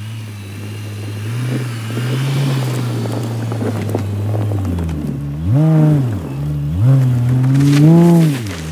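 2010 Audi A6 Avant's supercharged 3.0-litre V6 pulling through deep snow, with a crunching from the tyres in the snow. Near the end it revs up and drops back twice.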